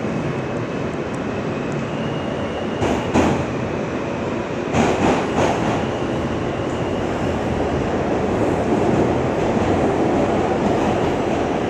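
R160 subway car running along the track, heard from inside the car: a steady rumble of wheels on rail. A few sharper clacks come about three seconds in and again around five seconds in.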